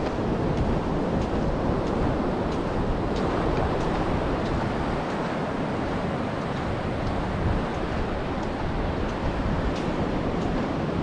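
Steady rushing of wind and sea surf, with wind buffeting the microphone, and faint footstep ticks about every two-thirds of a second.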